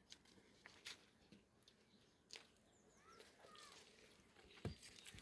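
Faint scattered clicks and taps, a few short bird chirps about halfway through, and one louder thump near the end.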